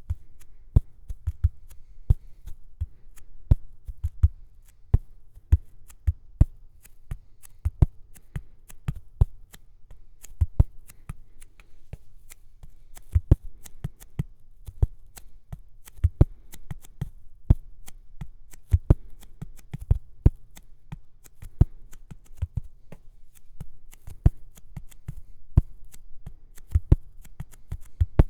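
Close-miked ASMR tapping: sharp taps several a second in an uneven rhythm, many with a low thud beneath them.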